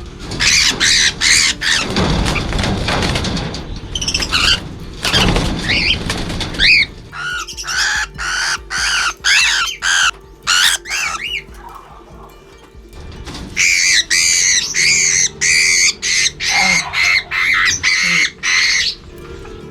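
Cockatiels giving rapid strings of short, harsh squawks as they are caught and handled, with bursts of wing flapping and scuffling about two and five seconds in.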